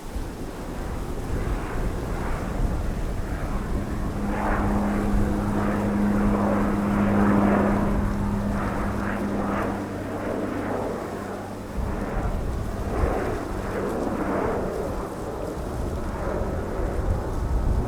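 Jet airliner's engines rumbling with a crackle as the plane passes, over a steady hum that fades out about ten seconds in.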